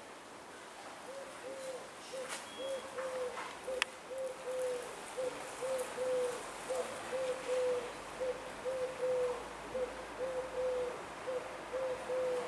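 A bird cooing: a steady run of short, low, soft coos, repeated over and over, like a dove's call. A single sharp click sounds near four seconds in.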